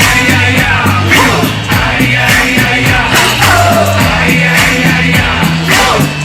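Live band playing an electro-pop song: a steady drum beat under a held bass line and synth or vocal parts.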